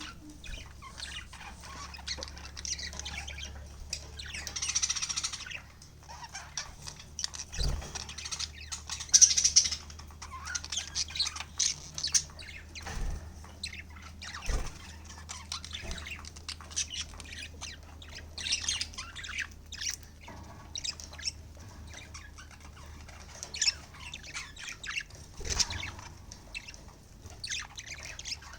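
Several pet budgerigars chattering, with a continuous stream of rapid high chirps and squawks and a few louder calls. A steady low hum runs beneath.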